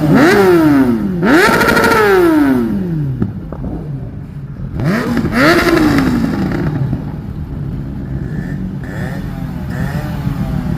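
Kawasaki inline-four sport motorcycle free-revving about three times, each blip climbing sharply and falling back. After that it settles to a lumpy idle.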